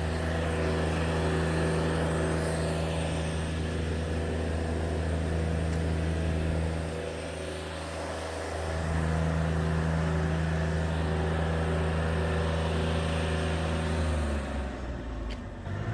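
An engine running at a steady speed. It quietens for a couple of seconds about seven seconds in, and its pitch drops near the end.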